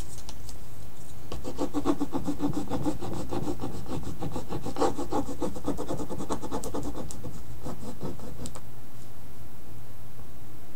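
Rub-on transfer being burnished onto the painting: rapid, even back-and-forth rubbing strokes that start about a second and a half in and stop about two seconds before the end.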